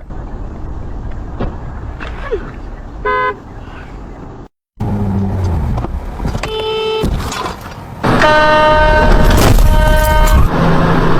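Car horns honking over engine and road noise: a short beep about three seconds in, another about six and a half seconds in, then a long, loud horn blast of about two seconds near the end.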